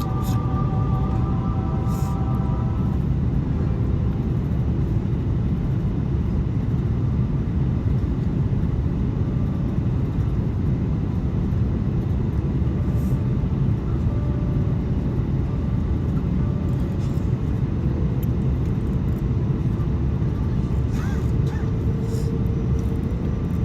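Steady low rumble of airliner cabin noise inside an Airbus A330-200: engine and airflow noise heard from a window seat, even in level throughout.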